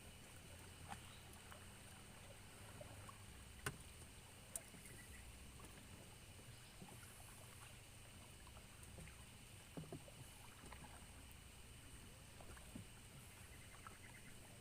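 Near silence: faint outdoor ambience with a steady high hiss and a few soft isolated clicks.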